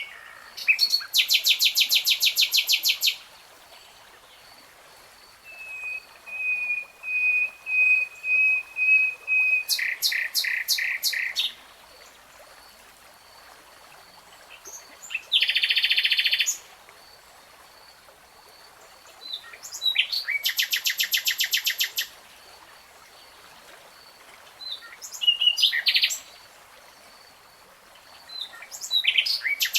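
Common nightingale singing in separate phrases a few seconds apart: rapid high trills and rattling runs, and one long series of slow, repeated whistled notes that grows louder before breaking into a trill.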